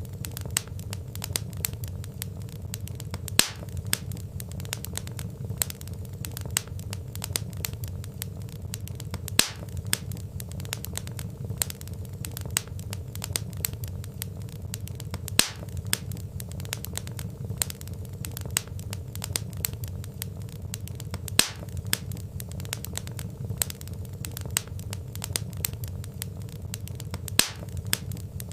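Wood fire of burning logs crackling steadily: a dense run of small crackles over a low, steady rumble, with a louder single pop about every six seconds.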